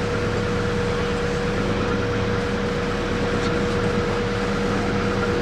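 Canal narrowboat's engine running steadily as the boat motors along, a low even chugging with a constant tone above it.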